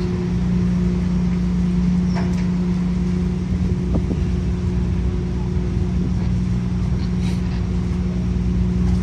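Steady low engine drone with a constant hum aboard a roll-on/roll-off car ferry, with a few faint knocks.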